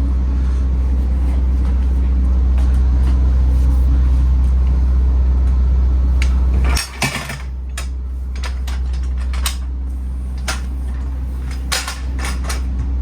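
Steady low machine hum with scattered metallic clanks and knocks, typical of a truck at a loading ramp. The hum drops about seven seconds in, followed by a cluster of louder knocks, with more knocks a few seconds later.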